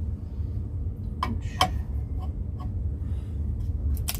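Hand tools and metal plumbing parts clicking and tapping a few times as a pressure switch is worked loose for unscrewing, with the sharpest click near the end, over a steady low rumble.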